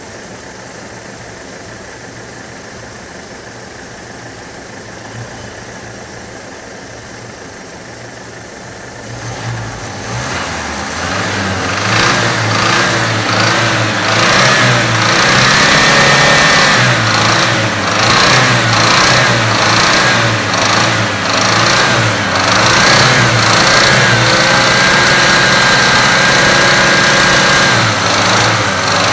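Chevrolet Opala engine idling steadily, then revved up and down repeatedly from about nine seconds in, carrying a strange noise that it is being run to find.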